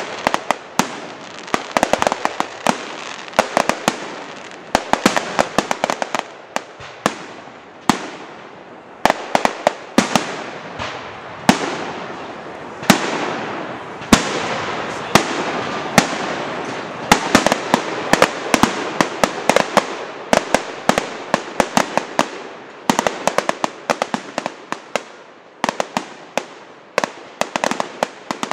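A firework display: rapid, dense bangs and crackling in clusters throughout, over the steady hiss of burning shells.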